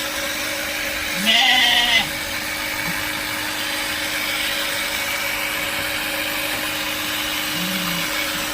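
A goat bleats loudly once, about a second in, and a fainter short call follows near the end. Under it runs the steady hum of a battery-powered sprayer's pump, which keeps running after its tank has run out and water has stopped coming out.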